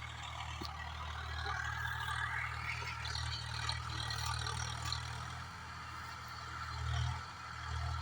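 Swaraj 744FE tractor's diesel engine running steadily while pulling a rotavator, with a noisy rush over the engine hum and a brief swell in the engine sound about seven seconds in.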